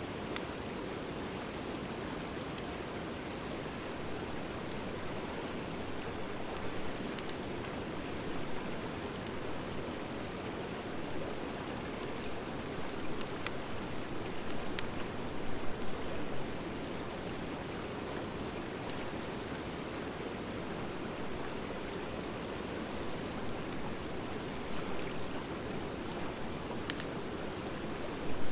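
Wood fire of driftwood and dry hardwood burning: a steady rushing hiss, with single sharp crackling pops from the wood every few seconds and a busier patch of crackle about halfway through.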